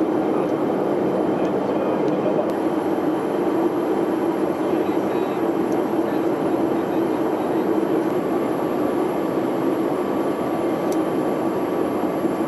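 Steady cabin noise of a Boeing E-3 Sentry in its climb: an even drone of airflow and the four jet engines, with a faint steady high tone above it.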